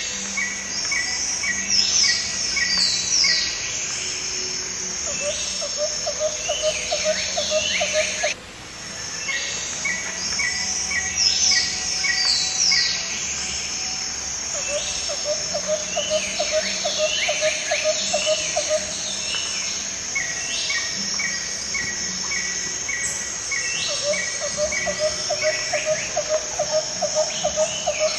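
Tropical birdsong and insect trills going round in a loop. A run of quick, even chirps gives way to high swooping bird calls, then to a rapid, low clicking trill, and the same cycle starts over about every nine to ten seconds.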